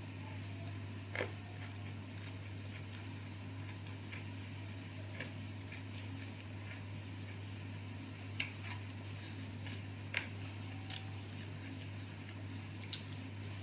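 Quiet eating sounds: a few sharp clicks and soft ticks of mouth, fingers and plate, the loudest about a second in and twice more in the second half, over a steady low hum.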